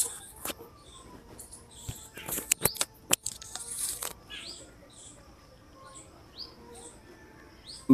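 Birds chirping: short rising chirps repeated about once a second. In the first half there are a few sharp clicks and a brief rush of noise.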